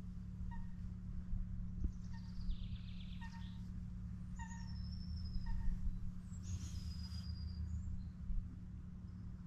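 Birds calling by a lakeshore: a short, low pitched call repeated about six times at irregular intervals, and a couple of higher, thin drawn-out whistles around the middle. A steady low hum runs underneath.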